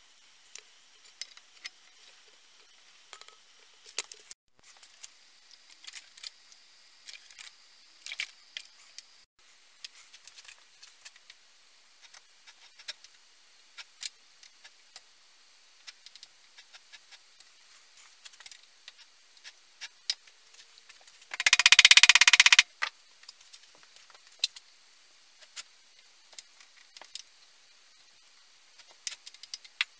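Light clicks and clinks of small metal parts and hand tools being handled, scattered and irregular. About two-thirds of the way in comes one loud rushing hiss lasting about a second.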